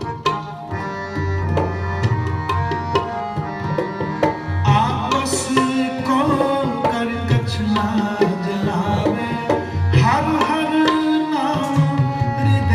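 Sikh kirtan music: tabla playing a steady pattern of strokes with deep bass-drum booms, under sustained held melody tones. A voice sings in places, about five and ten seconds in.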